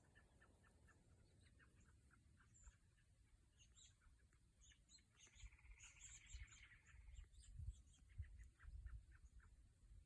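Faint small birds chirping with short, high notes throughout, one giving a rapid trilled song about five seconds in that lasts some two seconds. An uneven low rumble grows in the second half.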